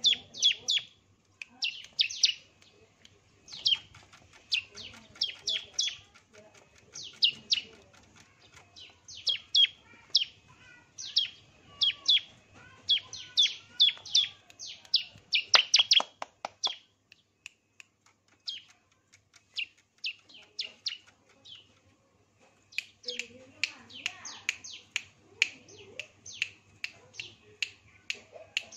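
A bird chirping in quick bursts of short, sharp, downward-sweeping notes, with a few seconds' pause past the middle.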